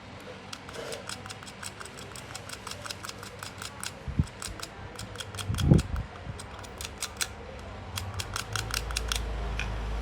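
Rapid light clicks, about five or six a second and fairly even, with two heavier knocks near the middle; a low hum comes in near the end.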